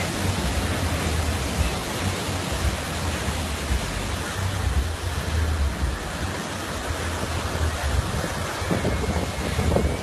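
Surf on a beach with wind buffeting the microphone: a steady wash of noise over a gusting low rumble.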